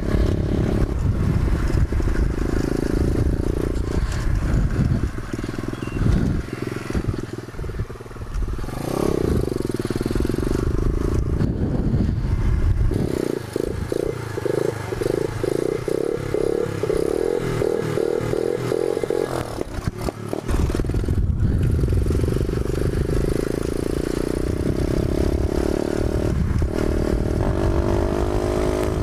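Pit bike engine running while riding, its pitch rising and falling as the rider works the throttle, over a heavy low wind rumble on the microphone.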